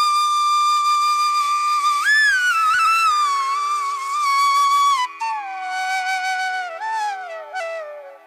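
Background music: a flute playing slow, long held notes that slide up and down between pitches, over a steady low drone.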